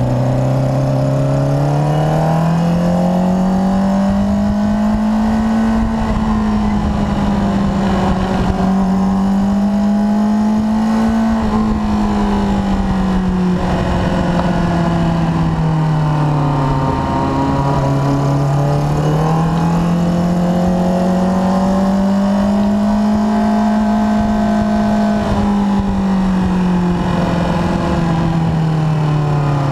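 Suzuki sport bike's engine running on the throttle at moderate revs, its pitch rising and easing back in slow, smooth swells several seconds long, with wind rush over the bike.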